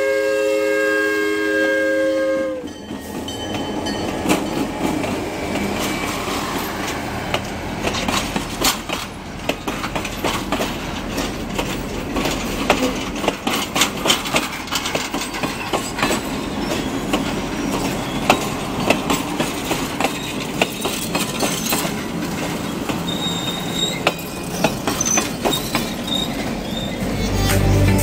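Diesel locomotive's air horn sounding a steady chord that cuts off about two and a half seconds in. Then the locomotive and its passenger cars roll past, steel wheels clicking irregularly over the rail joints.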